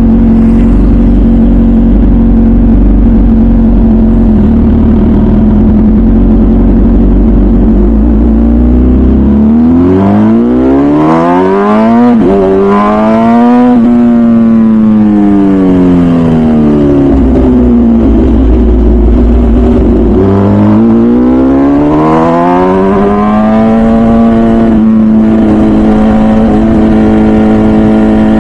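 MV Agusta Brutale 1000RR's 998cc inline-four, through its full titanium Arrow exhaust, heard from the moving bike. It cruises steadily at first, then revs climb hard under throttle about ten seconds in and drop back. It pulls hard again about twenty seconds in and then settles to a steady cruise, with wind rumble underneath.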